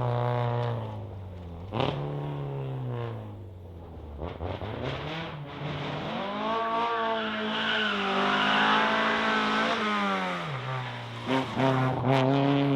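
Rally car engines revving hard, their pitch rising and falling through gear changes and lifts off the throttle. A few sharp cracks come near the end.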